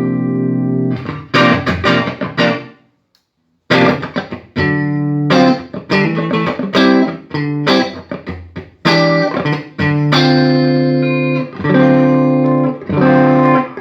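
Electric guitar played through a Peavey Triple XXX tube guitar amp: chords struck and left to ring, with a short silence about three seconds in. This is the amp's sound test after bad preamp capacitors were replaced and the amp was biased.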